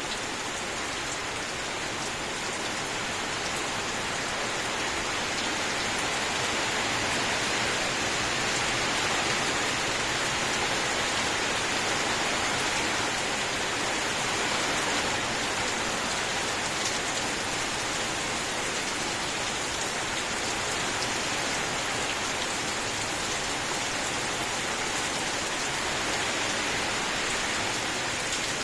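Steady heavy rainfall, a dense even hiss of drops hitting surfaces, swelling slightly in the middle.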